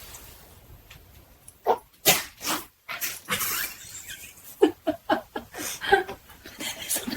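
A dog making a series of short whimpering and yipping sounds, starting about a second and a half in, mixed with a few sharp clicks.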